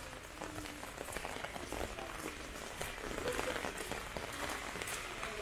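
Rain falling: a steady hiss of many small drop impacts.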